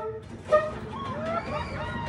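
Diesel locomotive passing at close range, rumbling, with a brief horn toot about half a second in and high wavering squeals over the passing train.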